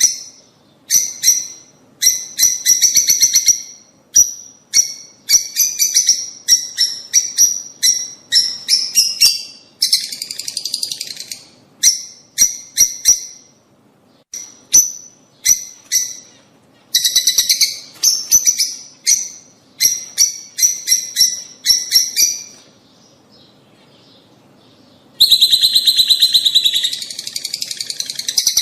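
Lovebirds (rosy-faced and Fischer's) chattering in rapid bursts of shrill chirps. A lull of about two seconds comes near the end, followed by a loud, dense run of chirping.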